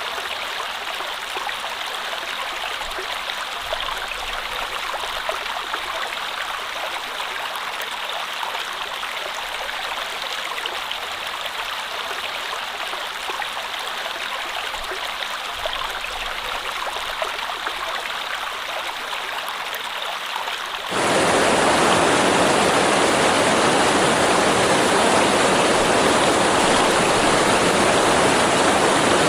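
Steady rushing water of a stream. About two-thirds of the way through it cuts suddenly to a louder, fuller rush of water that then holds steady.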